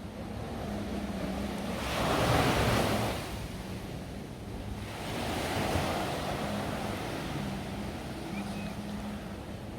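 Sea surf washing onto the shore, rising to a loud swell about two seconds in and a smaller one about five seconds in, with some wind on the microphone.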